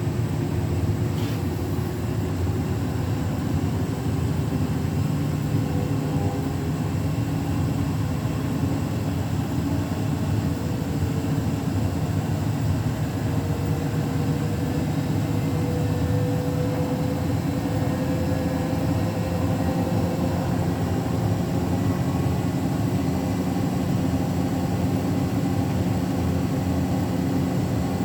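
Beko WTK104121W washing machine on its spin cycle, the drum spinning fast with a steady hum and whine. A faint tone slowly rises in pitch partway through.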